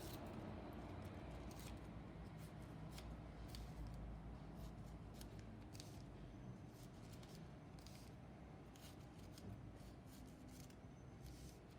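Scissors snipping newspaper into small squares: a string of quick, irregular faint snips.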